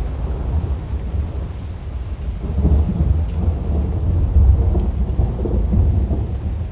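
Rolling thunder rumbling low and continuously, swelling louder about two and a half seconds in and easing off near the end, with rain in the background.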